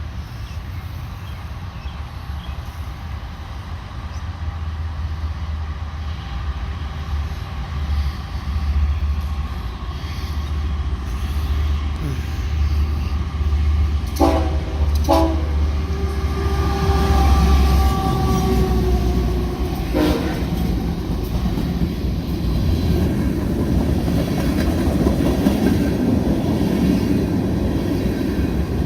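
Diesel freight locomotives running past with a heavy low rumble, the horn sounding a series of blasts about halfway through: two short ones, a longer held note, then one more short blast. In the last third the rolling rumble of tank cars' steel wheels on the rails builds up.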